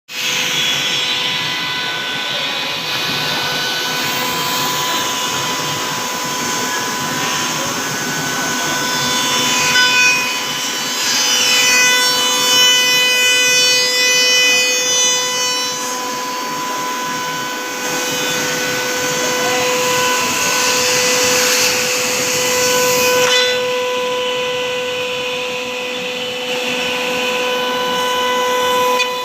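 CNC router spindle cutting a rounded cutout in a wooden door: a steady high whine over the hiss of the bit chipping wood. The whine's tones shift for a few seconds midway through.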